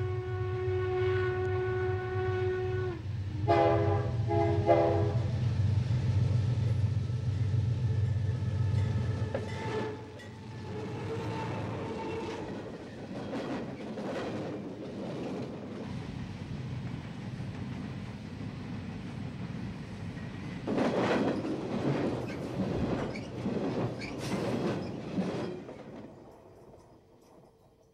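CSX diesel freight locomotives passing close by: a long horn blast, then a few short blasts, over a heavy engine rumble. Then the cars' wheels clatter over the rail joints, and the sound fades away near the end.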